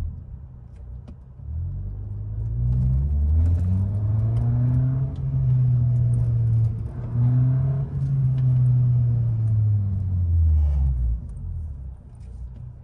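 Audi A3's 1.4-litre four-cylinder engine with the muffler deleted, pulling under acceleration. The pitch rises, dips briefly midway as if on a gear change, rises again, then falls off near the end as the throttle is eased.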